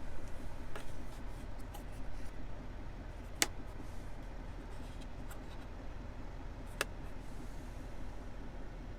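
Three sharp clicks, the loudest about three and a half seconds in, over a steady low hum and faint rubbing sounds.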